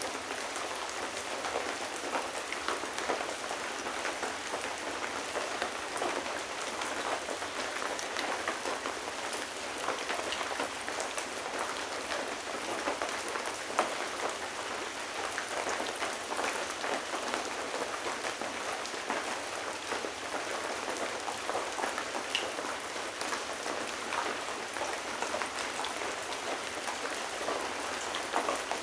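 Steady rain falling, a dense patter of drops on hard surfaces with individual drips ticking through it, and one sharper drop about halfway through.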